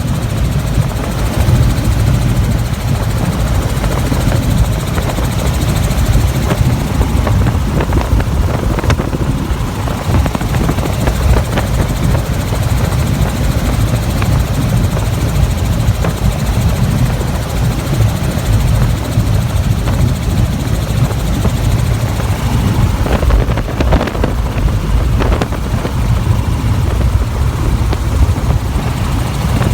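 Helicopter in flight: steady, loud rotor and engine noise with a fast low flutter from the rotor blades.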